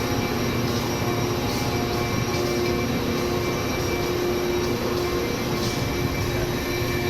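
Panama Canal Railway passenger train running: a steady rumble of rolling noise with a constant hum over it.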